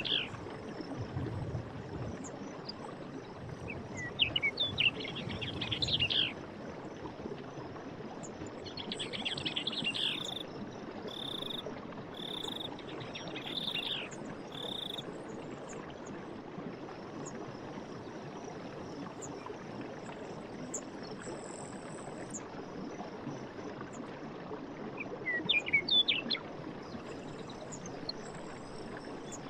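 Running stream water, steady throughout, with birds calling over it in bursts: chirps about 4 s in, a series of five short repeated notes between about 10 and 15 s, and another quick burst near the end.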